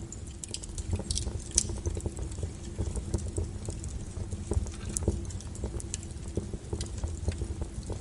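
Firewood burning, crackling with many irregular sharp pops and snaps over a low steady rumble.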